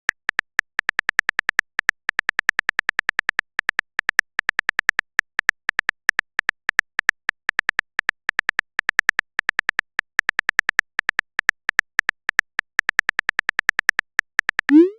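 Keyboard typing sound effect from a texting-story app: rapid, even clicks several a second, in bunches with brief pauses, like keys struck one by one. Just before the end, a short rising sweep.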